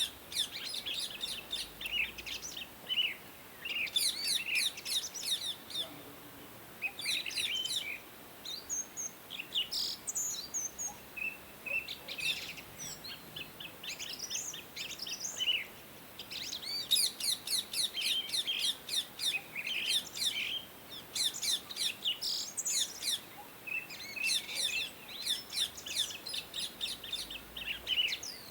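Indian ringneck parakeets chirping in quick bouts of high, rapid chirps, with short pauses between bouts.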